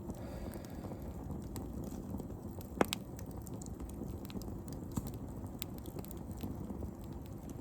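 Wood fire burning in a fire pit, crackling with scattered small pops over a steady low rush, and one sharp pop about three seconds in.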